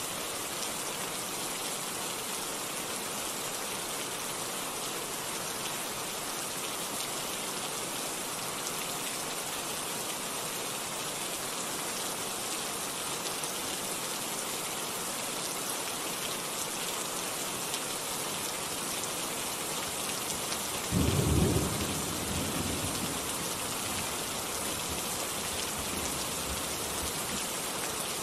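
Steady, even rain falling. About three-quarters of the way through, a sudden low rumble of thunder swells in and dies away over a few seconds.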